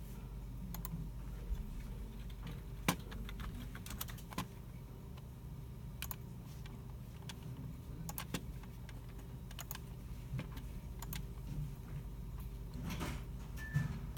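Computer keyboards and mice in a shared computer room: sparse, irregular keystrokes and clicks from several users, over a steady low hum.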